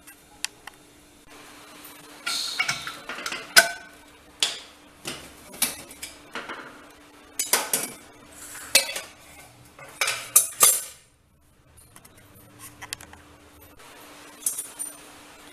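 Metal utensils clinking and scraping against a steel cooking pot: a string of separate knocks and scrapes, some ringing briefly, over a faint steady hum.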